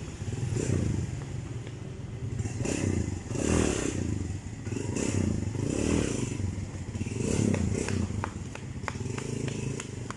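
Kawasaki Barako motorcycle's single-cylinder engine running, swelling and easing in level every second or so, with a few sharp ticks near the end. The engine has just been tuned up and its timing chain tensioner reset.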